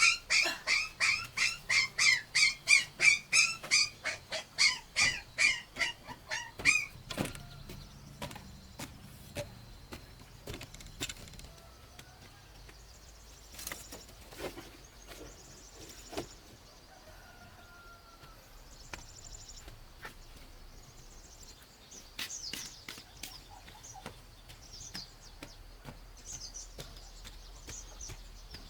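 A farm animal calling in a rapid run of loud, evenly spaced cries, about three a second, that stops about seven seconds in. Scattered clicks and faint bird chirps follow.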